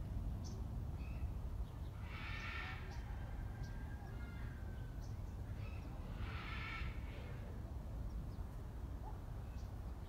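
A bird gives two loud, harsh calls about four seconds apart, with faint short chirps from small birds and a steady low rumble underneath.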